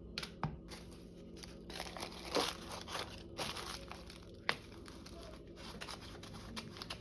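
Wax paper crinkling and rustling as it is handled and placed, with a sharp click about four and a half seconds in.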